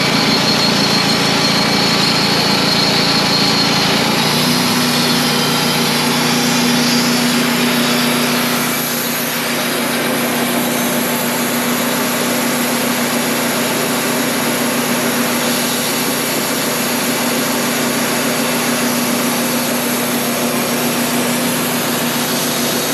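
Wood-Mizer sawmill's engine running steadily under load. Its note shifts about four seconds in.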